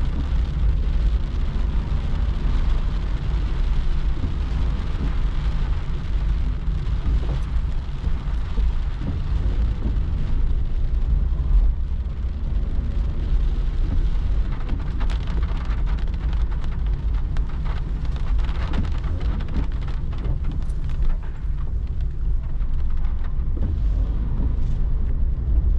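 Rain falling on a car, over a steady low rumble of road and engine noise, heard inside the cabin of a moving car.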